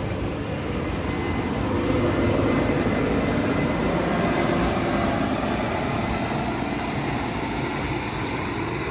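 New Holland combine harvester running as it passes close by, its engine and threshing noise swelling about two seconds in and then slowly fading.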